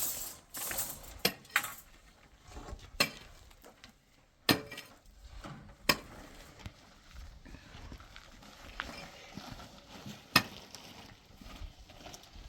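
Sharp knocks and clinks, about half a dozen spaced irregularly, with low scraping and rustling between them.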